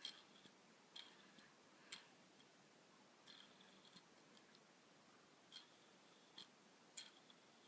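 Faint light clicks, about eight at irregular intervals, from a fidget spinner being handled and flicked in the hand.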